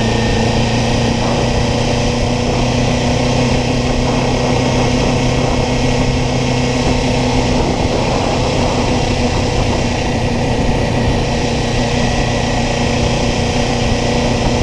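Kawasaki Ninja parallel-twin motorcycle engine running at a steady, unchanging engine speed, with a constant rush of noise over it.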